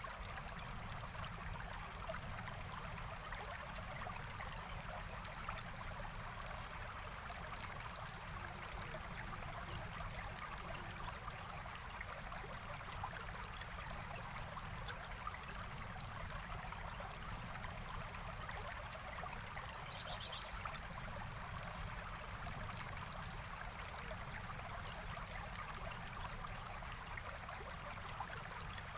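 Forest stream flowing in a steady, even rush of water, with faint scattered clicks and one brief high bird chirp about two-thirds of the way through.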